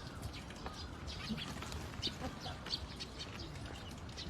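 Birds chirping in many short, high calls scattered over a steady low background rumble.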